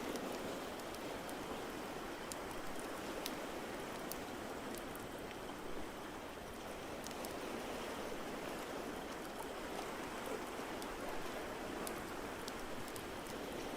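Steady hiss of rain with scattered small, sharp crackles from a wood fire.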